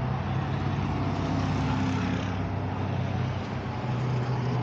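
Steady low hum of an engine running, with a constant background rush of noise.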